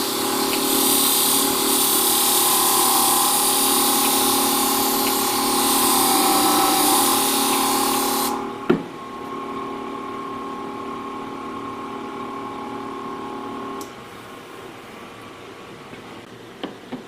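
Motorised sharpening machine running, with the hiss of a ceramic shear blade being ground against a wet 1200-grit diamond abrasive. About eight seconds in the grinding stops with a click while the motor hums on alone. The motor shuts off a few seconds later, leaving a few light clicks.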